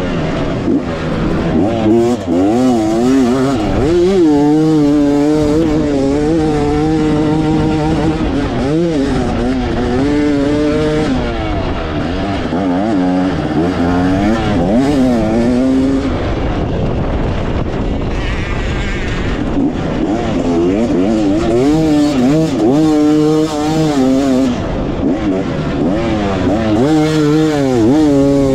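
Dirt bike engine ridden hard around a motocross track, the revs rising and falling again and again through acceleration and backing off, with a quieter spell past the middle, over heavy wind rush on the onboard microphone.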